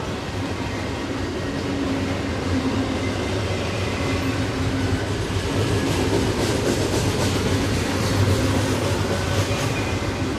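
Double-stack container cars of a long freight train rolling past downgrade, with a steady rumble of steel wheels on the rails. There is a run of sharp clicks from the wheels and track partway through.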